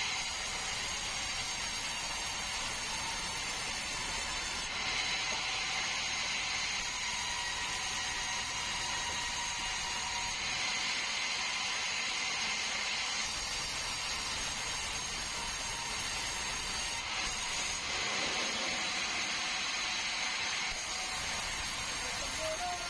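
Sawmill saw running steadily: a constant mechanical noise with a high whine whose upper tones change several times along the way.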